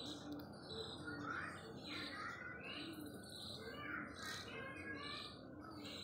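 Small birds chirping repeatedly, faint, over a low steady hiss.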